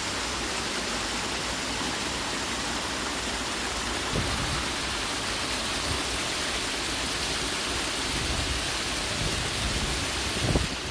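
Canal lock overflow water pouring down a spillway with a steady, even rushing. A short low thump comes near the end.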